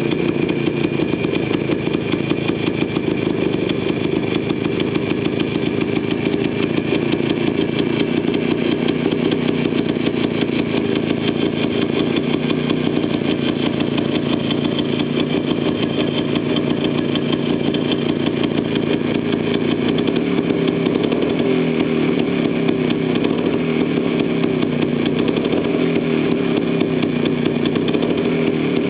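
DKW SB200's single-cylinder two-stroke engine running steadily on a trial run, with a fast, even firing beat.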